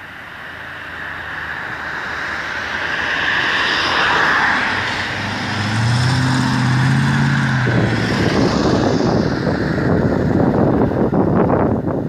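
Mercedes-Benz W108 saloon driving up, its engine and road noise growing steadily louder over the first few seconds, with the engine note clearest around the middle. Then a rough rushing noise with wind buffeting the microphone.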